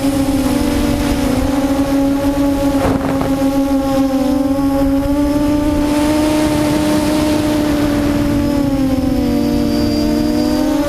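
QAV400 quadcopter's electric motors and propellers droning steadily in flight, several close tones drifting apart and back together as the motor speeds change. A brief crackle comes about three seconds in.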